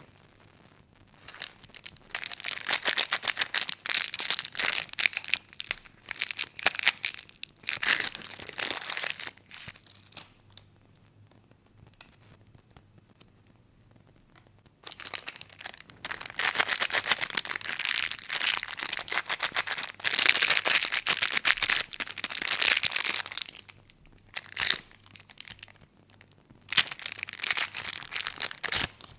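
Plastic candy wrappers being crinkled and torn open by hand, in several stretches of a few seconds each with quiet pauses between them.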